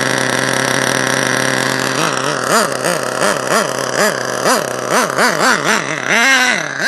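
HPI 4.1 nitro RC engine idling steadily, then blipped on the throttle: quick revs rising and falling in pitch about twice a second. It is running a little rich.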